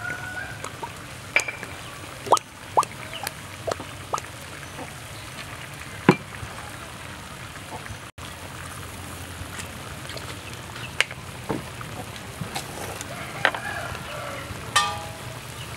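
Stingray pieces and eggplant frying in a wok over a fire: a steady sizzling hiss with scattered small pops and clicks.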